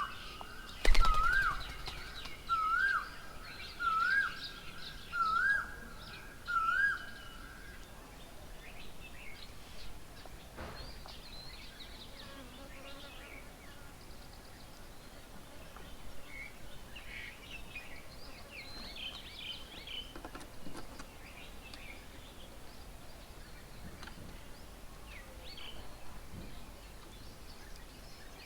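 A bird repeats one loud whistled note, rising then dropping, six times about a second and a half apart; the series stops about seven seconds in. A sharp knock comes about a second in, and other birds chirp in short scattered calls through the rest.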